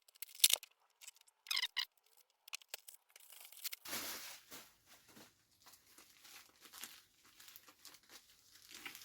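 Packaging being handled and torn open: irregular crinkling and tearing rustles. The loudest bursts come near the start and about four seconds in, with quieter rustling after.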